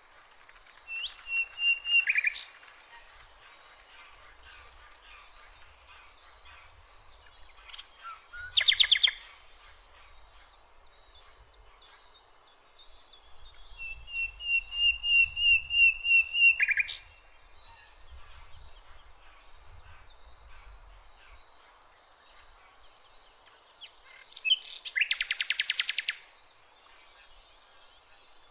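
Songbird singing in separate phrases. Two phrases are runs of quick repeated clear notes that build in loudness and end with a sharp drop; two are short, rapid buzzy trills. Between phrases there is faint, steady background noise.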